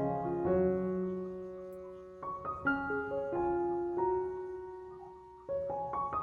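Slow, gentle solo piano music: single struck notes and chords that ring and fade, with new notes entering every second or so.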